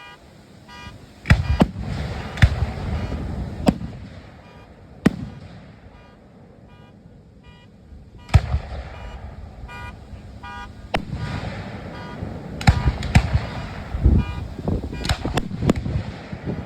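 Aerial fireworks bursting overhead: a string of sharp booms with crackle after them, about a dozen reports, with a lull of a few seconds in the middle before the bursts pick up again faster near the end.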